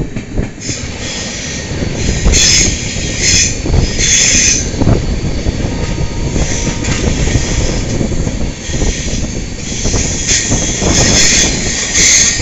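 Passenger train running on a curve, heard from an open coach doorway: steady rumble of wheels on the rails with wind, and several bursts of high-pitched wheel squeal.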